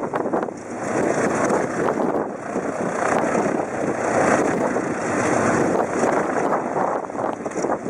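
Loud gusting wind noise buffeting the microphone, a rushing roar that swells and eases over a few seconds.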